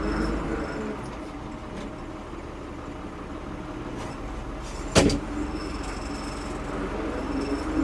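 1975 Ford 550 backhoe's diesel engine running steadily, with a single sharp knock about five seconds in.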